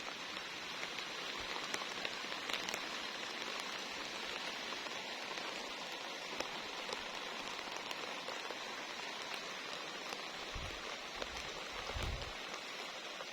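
Steady rain falling on the garden, an even hiss dotted with the ticks of single drops.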